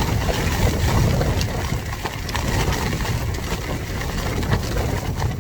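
Gale-force wind buffeting an A-frame tent, heard from inside: a steady low rumble of wind with the tent fabric flapping and scattered sharp taps.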